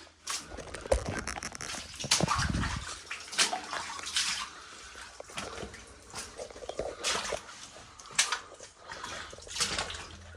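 Someone moving through a cave's mud and shallow spring water: irregular sloshing, squelching steps about once a second, with some scraping and dripping.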